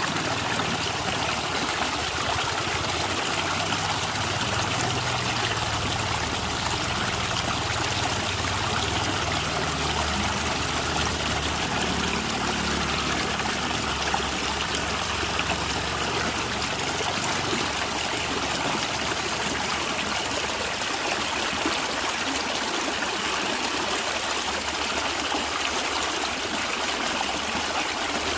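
A stream of water running and trickling steadily, with a low rumble underneath that fades somewhat in the second half.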